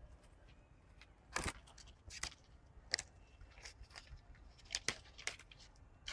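A small tree branch being snapped and broken off: a series of sharp cracks and snaps, about seven of them spread over several seconds.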